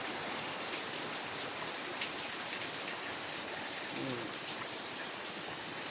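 Heavy tropical rain falling steadily, a dense even patter of drops on surfaces.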